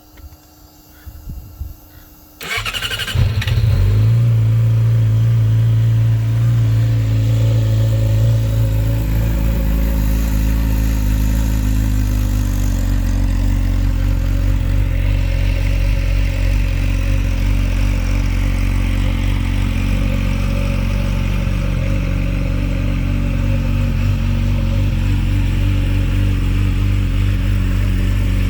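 Yamaha R6 inline-four with a Toce aftermarket exhaust starting up about two and a half seconds in, after a few faint clicks, then idling steadily. The idle runs higher for the first several seconds and settles lower about ten seconds in.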